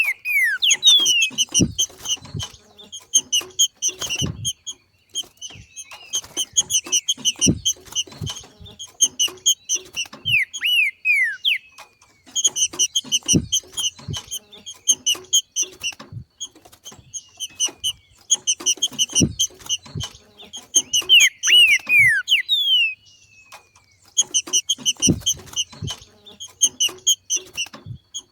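Green-winged saltator (trinca-ferro) giving its 'macheado' call: bursts of very fast chattering notes lasting a few seconds each, separated by short pauses, with a few quick downward-sliding whistles mixed in. Scattered low thumps run through it.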